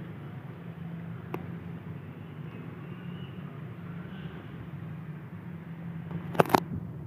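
Steady low hum of road traffic, with a faint click a little over a second in and two sharp knocks close together near the end.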